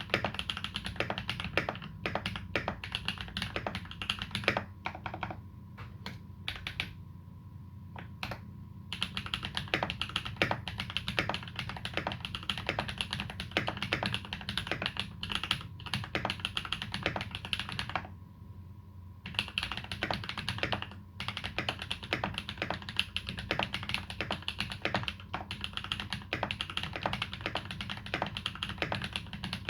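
Typing on a TX EO87 custom mechanical keyboard with lubed Holy Panda tactile switches and GMK Dolch keycaps: a fast, steady run of keystrokes. It breaks off briefly about seven seconds in and again just after eighteen seconds.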